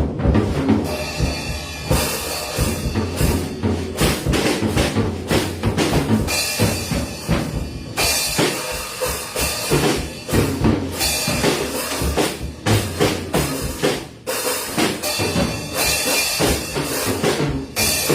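Drum kit played hard and continuously: a dense run of drum strokes with crashes ringing over most of it.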